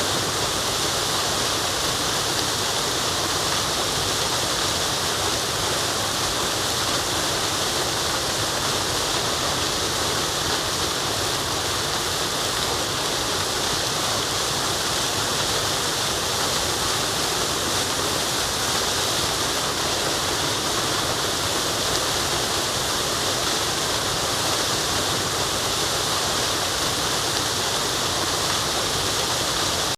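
Waterfall rushing in a steady, unbroken hiss-like roar of falling water, even and unchanging throughout, with most of its energy in the higher pitches.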